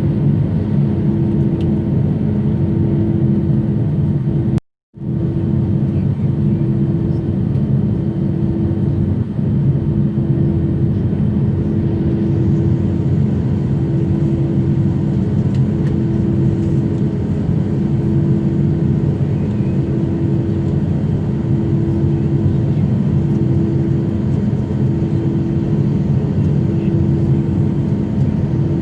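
Jet airliner engines running steadily, a continuous loud rumble with a low droning hum that pulses gently every couple of seconds. The sound drops out completely for a moment about five seconds in, then picks up again unchanged.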